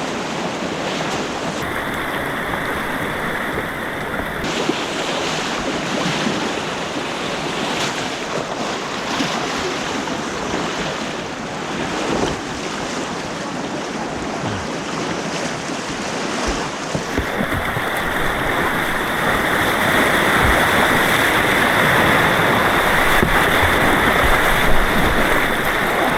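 Rushing white water on an artificial white-water course, a steady wash of noise that grows louder about seventeen seconds in.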